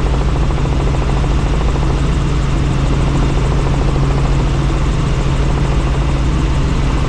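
Helicopter in flight heard from the cabin: steady, loud rotor and turbine noise with a strong low hum.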